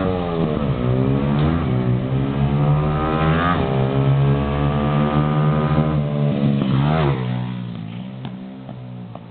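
125cc pit bike's single-cylinder engine revving, its note climbing and dropping back several times, sharpest around three and a half and seven seconds in. The sound then falls away and gets quieter.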